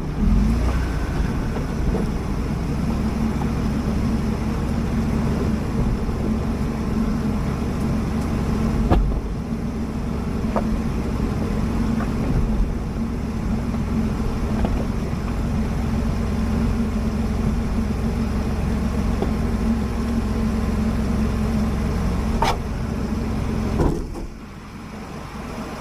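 A Ford Bronco's engine running steadily at low speed while crawling over a rocky trail, with a few sharp knocks scattered through it. Near the end the engine sound drops away.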